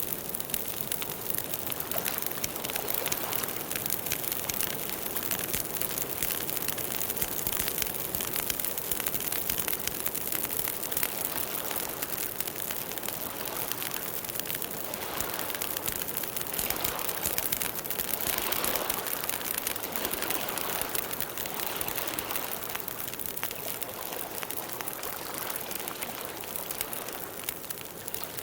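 Campfire burning, wood crackling with dense small pops over a steady hiss, with a few fuller swells of flame noise midway.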